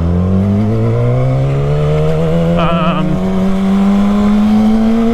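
Motorcycle engine pulling in one gear, its pitch rising slowly and steadily as it gains revs, then dropping sharply at the very end as it shifts up.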